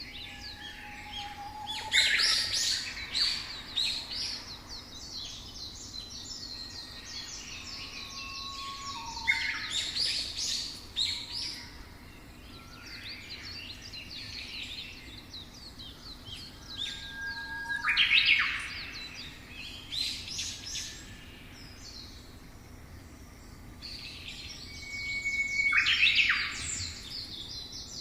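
Several songbirds singing and chirping together, with quick chirps and short steady whistled notes and a louder flurry of song about every eight seconds, over a faint steady background hiss.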